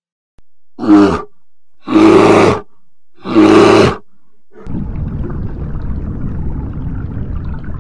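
Brown bear roaring three times, each roar under a second long, about a second apart. Then, from about two-thirds of the way through, a steady low underwater rumble takes over.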